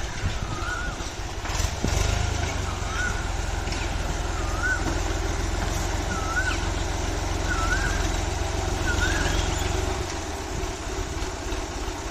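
Tractor engine running steadily with a low, evenly pulsing rumble that grows louder about two seconds in. A short wavy chirp repeats over it about every second and a half.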